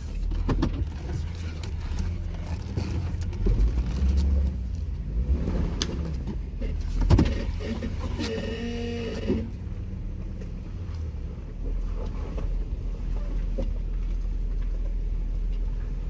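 A Jeep Wrangler crawling at low speed over a rocky trail: a steady low engine drone, with a few sharp knocks and clunks scattered through it, the loudest about seven seconds in.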